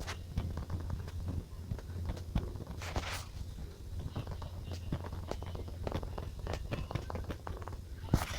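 Journaling supplies handled on a desk: a run of small taps and clicks over a low steady hum, with a brief rustle about three seconds in and a sharp click near the end.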